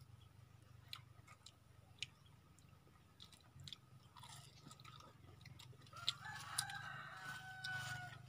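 Faint crunching and chewing of crispy fried swamp cabbage (kangkong) fritters, a few crisp bites in the first half. About six seconds in, a rooster crows, one long call of about two seconds.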